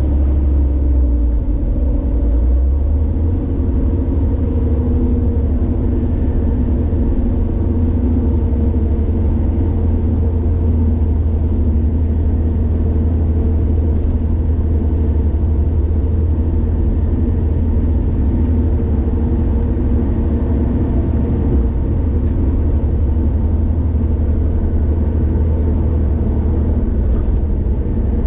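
A car driving at steady speed on a highway: a constant low engine drone with road and tyre rumble, unbroken throughout.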